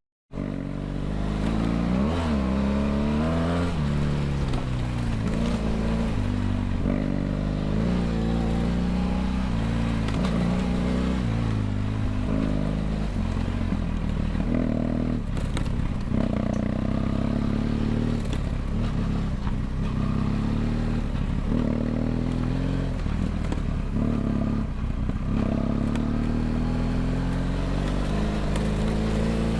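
BMW F800GS parallel-twin engine through a LeoVince LV ONE EVO stainless steel exhaust, under way with the revs rising and falling through gear changes and several brief throttle-offs.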